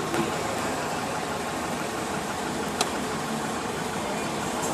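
Car engine idling while the car is stopped, heard from inside the cabin, a steady low running sound with one sharp click about three seconds in.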